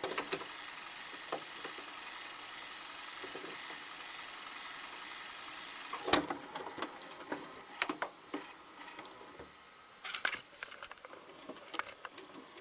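VCR fast-forwarding a VHS tape with a steady motor whir. After about six seconds comes a sharp snap as the tape reaches the end of the reel and the transport stops, followed by a few small mechanism clicks.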